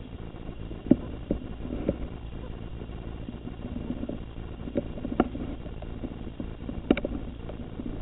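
Scattered light clicks and taps, about six of them, over a low steady hum.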